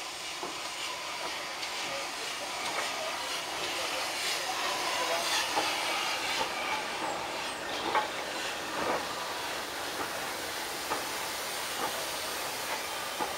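Passenger coaches of a steam-hauled train rolling past, wheels clicking irregularly over the rail joints, loudest around the middle.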